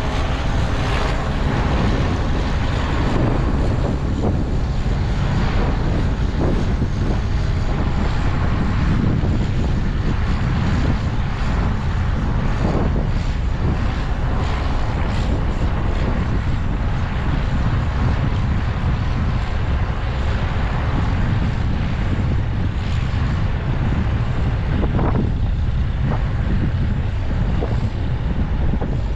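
Heavy farm machinery running steadily at corn harvest, a constant low rumble, with wind buffeting the microphone.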